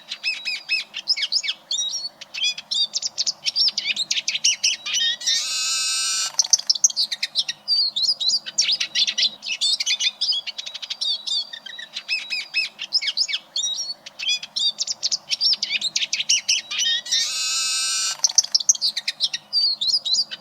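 Eurasian siskin singing: a fast, continuous twittering warble, broken about 5 s in and again near 17 s by a drawn-out buzzy wheeze of about a second.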